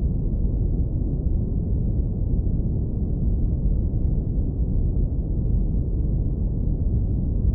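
Deep brown noise, filtered to keep only the low bass: a steady, even rumble with no high hiss.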